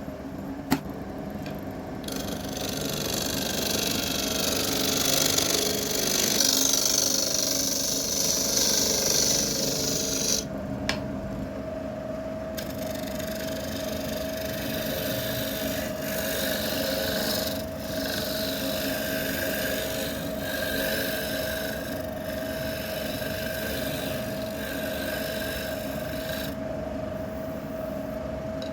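Wood lathe running with a steady motor tone while a turning tool cuts and scrapes the spinning wood; the cutting hiss is loudest for the first third, with a sharp click just under a second in.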